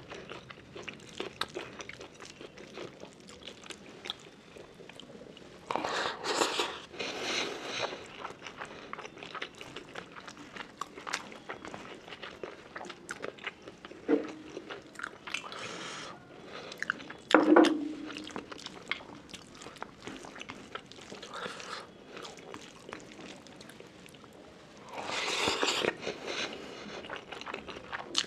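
Close-miked sounds of a person eating rice and curry by hand: wet chewing and mouth clicks throughout, with a few longer, louder noisy stretches.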